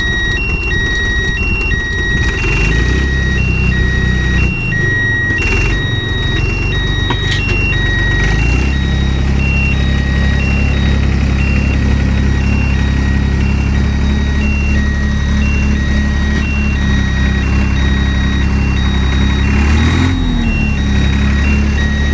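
Vehicle engine running with a two-tone warning beeper sounding steadily over it, about one high–low cycle a second. The engine picks up about two seconds in, settles to a steady run, and revs briefly near the end.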